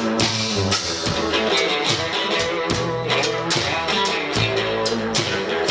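Rock band playing: guitar notes over a steady drum-kit beat, with held bass notes underneath.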